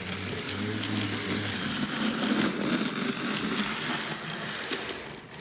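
Lima HO model locomotive with its G 'pancake' motor running along the track: a steady buzzing noise with scattered clicks that builds up and then fades away near the end.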